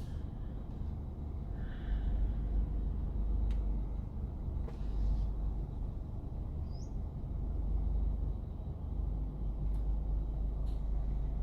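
Low, steady rumble of a car on a slow drive, with a single short, high, rising bird chirp about seven seconds in.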